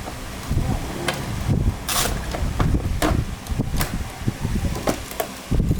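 Irregular knocks and clicks over a constant low rumble, with a brief hiss about two seconds in.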